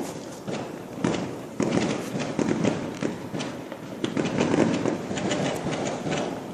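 Fireworks going off in quick, irregular succession: many overlapping bangs and crackles over a continuous rumble, heard from indoors with the window closed.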